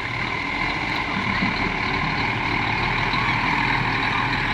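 Heavy diesel engine running steadily with a whine over it, getting slightly louder.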